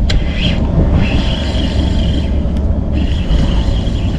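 Strong wind buffeting the microphone: a loud, steady low rumble. A thin high whine comes and goes above it.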